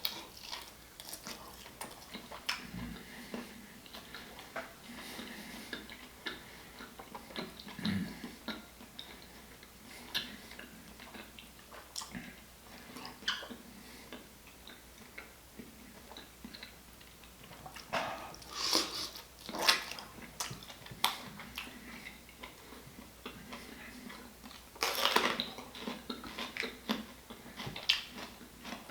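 Close-up eating sounds from a person eating lobster and seafood: chewing and mouth smacking with scattered small clicks, and louder clusters of noisy bursts about eighteen and twenty-five seconds in.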